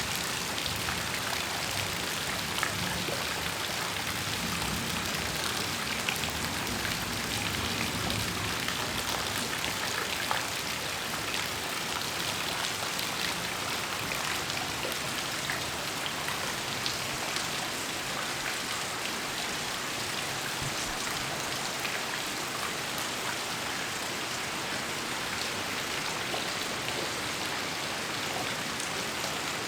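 Heavy rain falling steadily, with many separate drops ticking on a surface. A faint low rumble runs underneath for roughly the first ten seconds.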